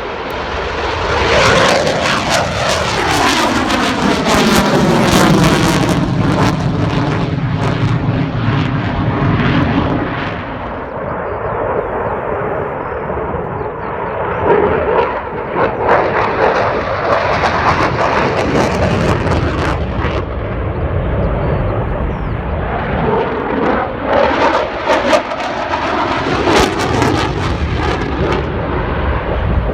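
Eurofighter Typhoon fighter jet's twin EJ200 turbofans in display flight, loud jet noise whose pitch falls steadily over the first ten seconds as the jet passes. The engine noise runs on and swells again near the end.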